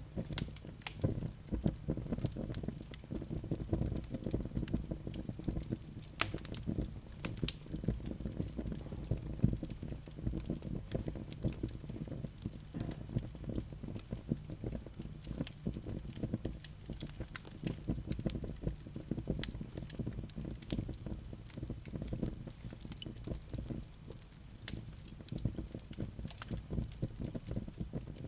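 Wood fire burning in a fireplace: a steady low rumble of flames with frequent, irregular crackles and sharp pops of burning wood.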